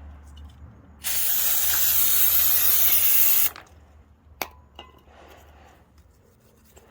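An aerosol can of brake cleaner spraying in one steady hiss of about two and a half seconds, cutting off suddenly, followed by two light clicks.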